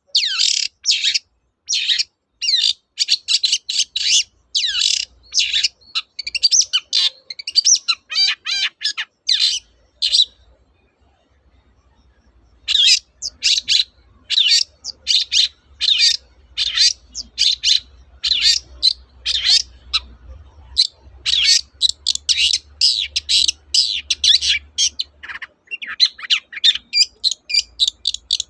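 Long-tailed shrike (cendet) singing loudly in a rapid run of short, sharp, downward-sweeping notes, several a second. It falls silent for about two seconds near the middle, then resumes.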